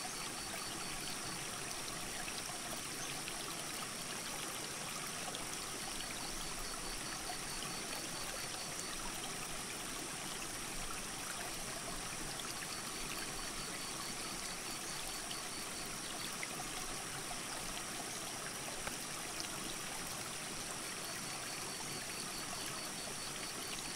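Mountain creek rushing steadily over rocks, an even, unbroken sound of flowing water. A faint, high, evenly pulsed trill recurs every six seconds or so over it.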